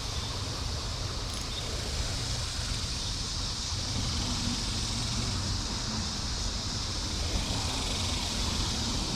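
Steady outdoor background noise: a constant low rumble with an even high hiss over it, no distinct events.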